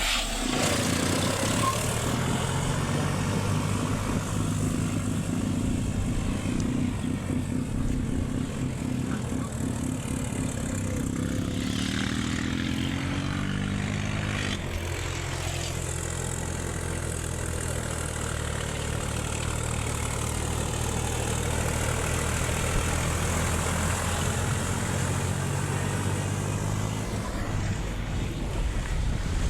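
Diesel tractor engine running steadily under way. A little after the middle its pitch climbs for a few seconds, then drops back suddenly and holds steady again.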